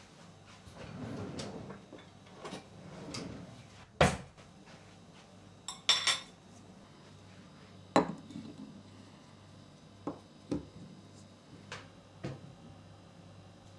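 Dishes and cutlery being handled in a kitchen: soft rustling at first, then a few sharp knocks and clinks, one with a brief ringing, followed by lighter taps.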